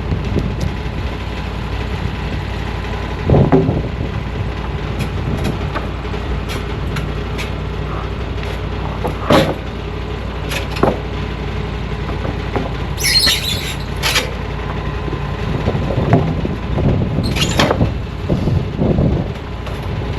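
Sawmill engine running steadily at a constant speed, with scattered knocks and clanks and a few short hissy bursts over it.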